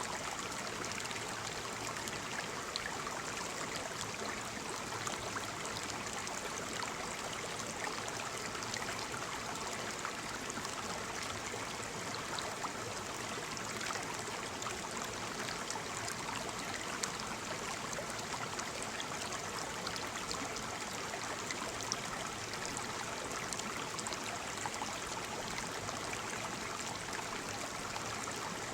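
Waterfall: a steady rush of falling water splashing, with small scattered splashes and no change in level.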